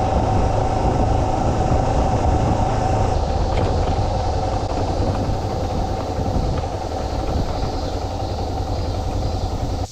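Yamaha Serow 250 motorcycle running at a steady cruise while being ridden, its engine and a heavy wind rumble over the microphone.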